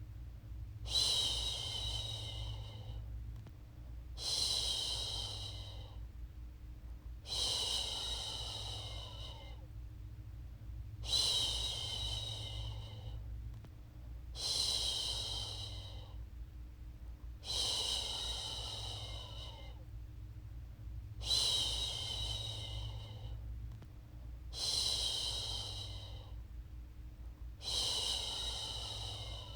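A woman shushing a baby to sleep: long, drawn-out "shhh" sounds repeated about every three and a half seconds, nine in all, each fading off, over a steady low hum.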